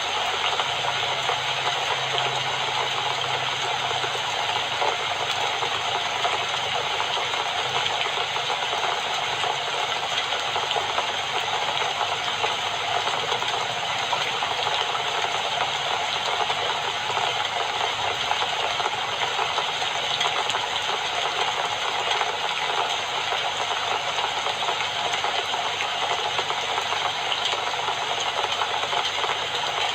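Steady, dense rainfall with fine pattering, an even hiss that holds without pause.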